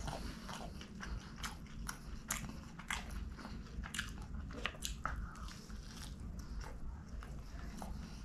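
A person chewing a mouthful of Pizza Hut Melt, its thin crust crunching in irregular crackles and clicks.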